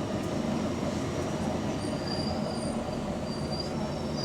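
Bus engine and running gear heard from on board as it drives, a steady rumble with a few faint, high whistling tones coming and going. The bus has an exhaust leak.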